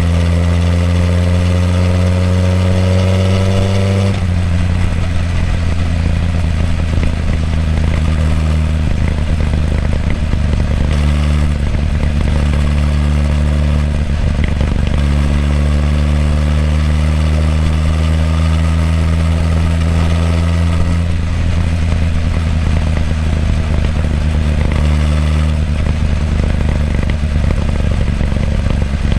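Suzuki GSX-R1000R's inline-four exhaust through the stock muffler, heard right at the silencer while riding: a steady engine note whose pitch creeps slowly and shifts in steps several times as engine speed changes between gears.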